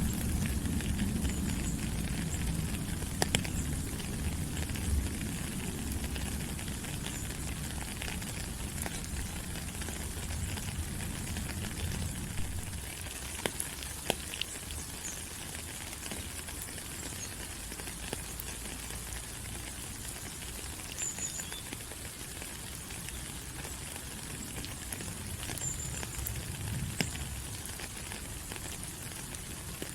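Rain falling on leaves in a tropical forest: a steady hiss scattered with many small drip ticks. A low rumble under it fades out about a dozen seconds in, and there are a few faint, brief high chirps.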